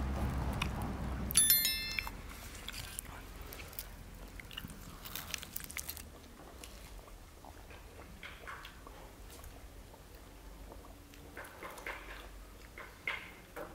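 People biting into and chewing crisp fried samosas, with small crunching clicks scattered throughout. A short bright chime sounds about a second and a half in.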